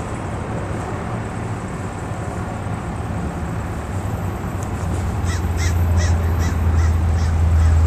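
An approaching passenger train's diesel locomotive, a low rumble that grows steadily louder through the second half. Over it, a crow gives a quick run of harsh caws, about three a second.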